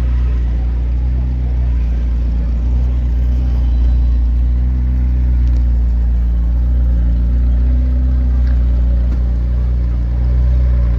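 A steady low engine drone, running evenly with no revving.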